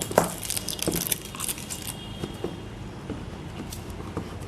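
A speaker's retail box being opened by hand: a scattered run of light clicks, knocks and rustles from the packaging as it is handled.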